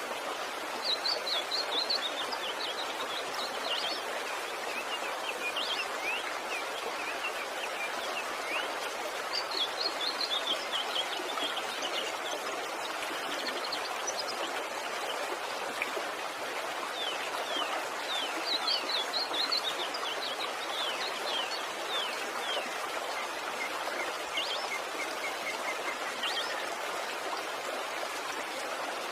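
Steady rush of water from a waterfall, with small birds chirping in several short bursts over it.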